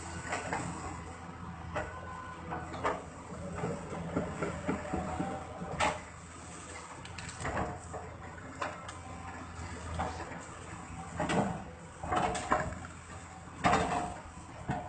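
An engine running steadily, with irregular sharp knocks and cracks every second or so.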